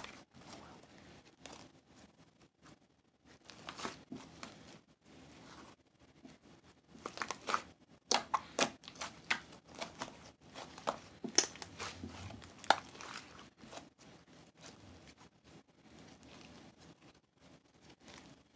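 Irregular crinkling and rustling with sharp clicks, as of something being handled up close, in clusters with quieter gaps between.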